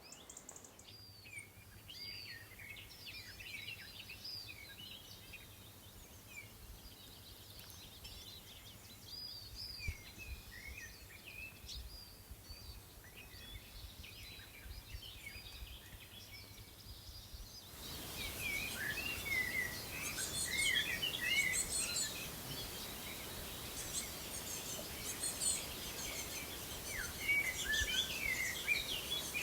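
Small songbirds chirping and twittering in many short, quick calls over a faint background hiss. The hiss gets louder about eighteen seconds in, and the chirping grows busier.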